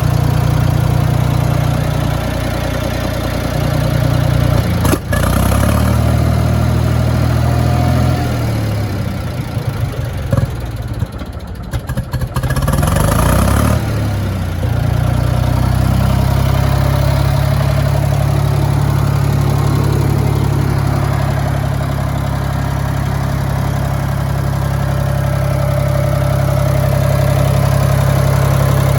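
Ford 3000 tractor's three-cylinder gasoline engine running steadily. Through the middle stretch its note dips and rises again as the engine speed changes, with a sharp click about five seconds in.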